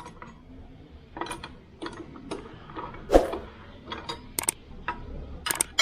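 Hand tools working the bolts of a scooter's CVT side cover: irregular metal clicks and clinks, with one louder clank about three seconds in.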